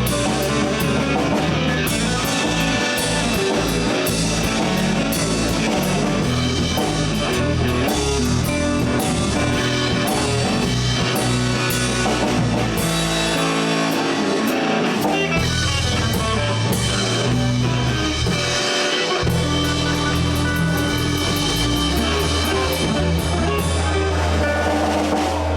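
Live blues band playing an instrumental passage: guitar over electric bass and a drum kit with steady cymbal strokes.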